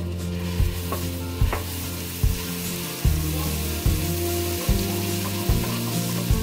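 Ginger-garlic and coriander paste sizzling in hot fat in a frying pan as a wooden spatula stirs it, over background music.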